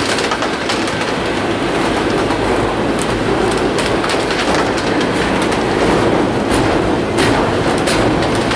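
Double-stack intermodal freight train's well cars rolling past at close range: a steady rumble of steel wheels on rail, with sharp clicks scattered throughout.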